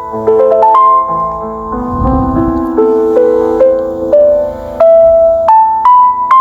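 Slow, calm instrumental music on a piano-like keyboard, playing a melody of single notes that each start sharply and ring on under held lower tones.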